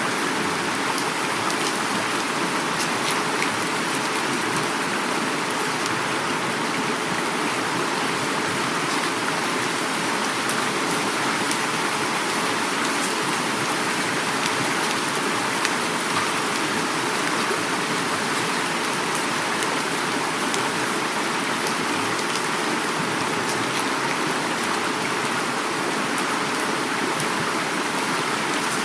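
Heavy rain falling steadily, with the rush of flowing river water beneath it and scattered drops pattering.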